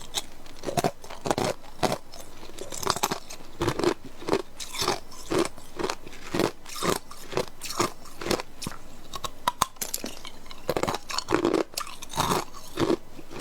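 Clear ice cubes being bitten and chewed close to the microphone: a steady run of hard crunches, about two a second.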